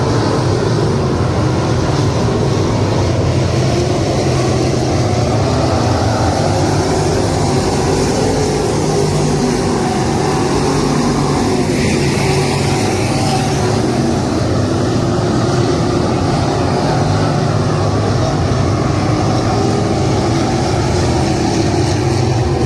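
Motor vehicle noise: a loud, steady drone that holds without a break.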